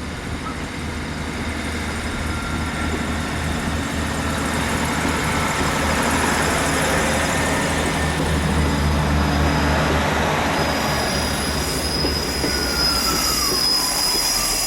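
Class 158 diesel multiple unit running, its diesel engine hum growing louder over the first several seconds. Thin high wheel squeal from the rails joins near the end, with a short falling whine.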